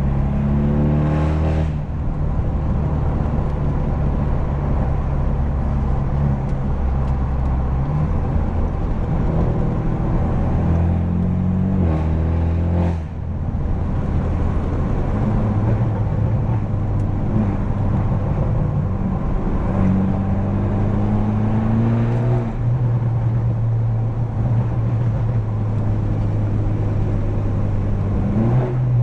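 Straight-piped, tuned BMW F30 328i's turbocharged four-cylinder accelerating through the gears: the exhaust note climbs in pitch and then drops at each of about three upshifts. Short, sharp exhaust pops crack around the shifts.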